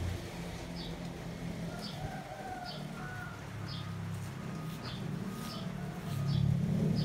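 Birds calling: short high chirps about once a second, with a lower drawn-out call near the middle, over a steady low hum.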